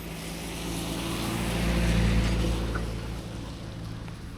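A motor vehicle driving past close by, its engine growing louder to a peak about two seconds in and then fading away.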